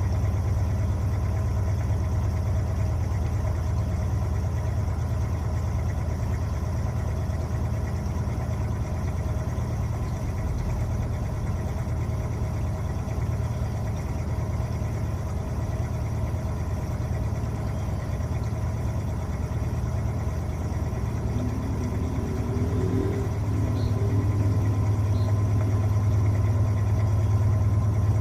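Electrolux LTA15 washing machine running through its wash programme: a steady low motor hum that gets somewhat louder about 22 seconds in.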